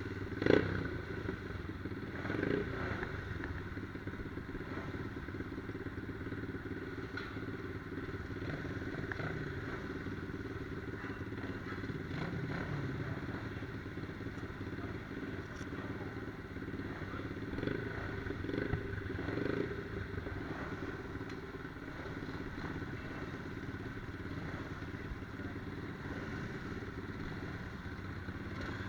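Small pit bike engine running steadily, with a sharp knock about half a second in and a few brief louder moments.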